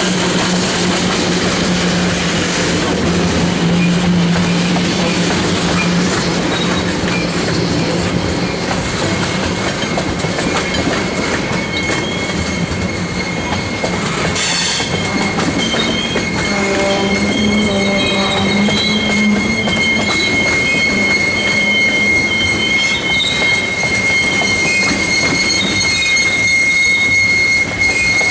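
Freight train rolling past with a steady rumble and clatter of wheels on rail. About halfway through, the car wheels start squealing against the rail in a steady high-pitched squeal that holds to the end.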